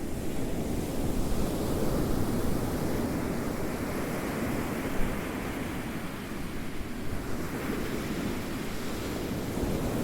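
Ocean waves rolling in and washing on a shore: a continuous rushing surf that swells and eases.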